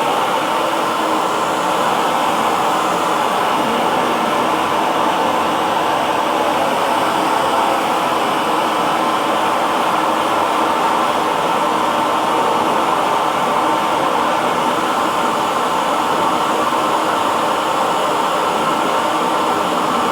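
Hair dryer running steadily, a constant whooshing of fan and blown air with a faint motor hum and no change in speed.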